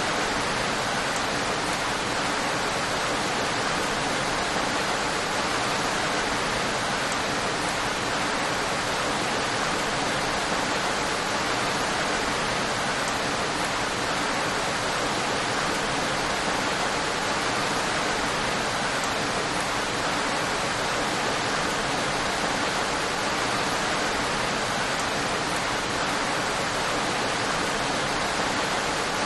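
Steady, even rain: a constant hiss of heavy rainfall with no individual drops standing out.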